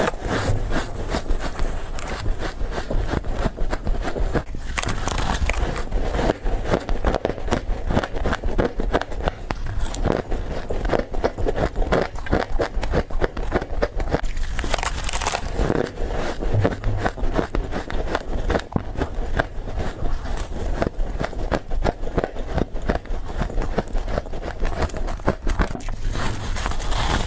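Fast, continuous bites and chewing of soft frost ice, a dense crunching and crackling with no pauses.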